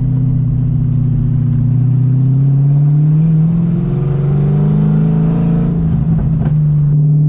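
Straight-piped BMW M60 V8 in an E30 running under way, the revs climbing gradually for a few seconds and then dropping back about six seconds in. A short knock near the end.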